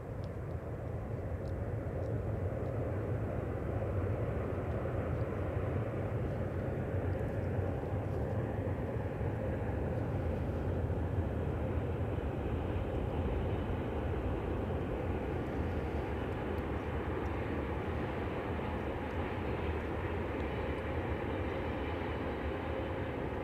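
Distant electric passenger train crossing a high viaduct: a steady low rumble with a faint hum, swelling over the first few seconds and then holding.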